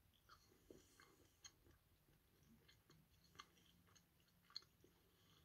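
Near silence with faint, irregular mouth clicks of someone chewing a ganache-filled chocolate.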